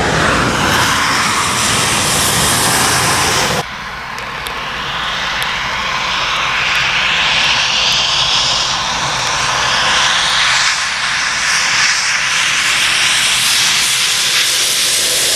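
Heavy trucks passing at speed on a rain-soaked road, their tyres hissing through the spray over the engine noise. The sound cuts abruptly about three and a half seconds in, then another truck's rushing hiss swells and fades.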